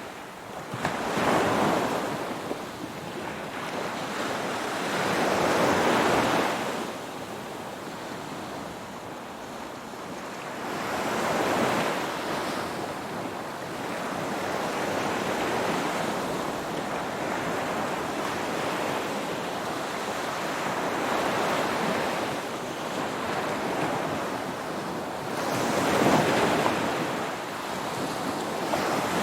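Ocean waves breaking and washing on a shore, a continuous rush that swells and ebbs every few seconds, with the biggest surge near the end.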